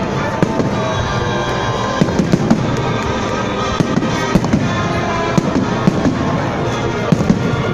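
Fireworks salute going off: many sharp bangs and crackles at an irregular, rapid pace, with music playing underneath.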